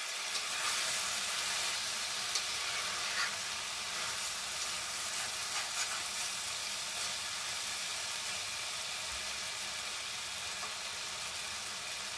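Okra, onions and spice masala frying in oil in a pan, a steady sizzle, while a spatula stirs and scrapes the mixture now and then.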